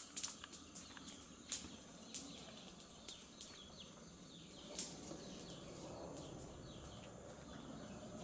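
Faint small birds chirping in short falling notes, with scattered sharp clicks.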